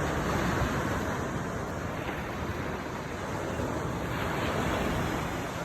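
Steady rushing noise of wind on the microphone mixed with surf washing.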